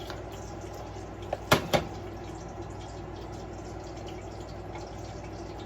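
Two sharp knocks about a second and a half in, with a faint tick just before, over a steady low kitchen hum.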